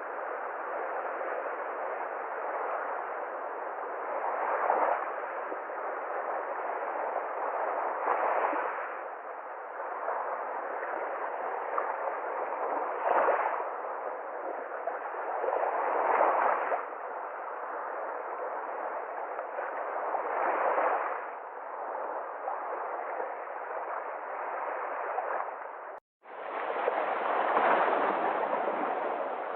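Sea waves washing ashore in a steady rushing surf, with a wave surging up every few seconds. Near the end the sound cuts out for a moment and a fuller, slightly deeper surf recording begins.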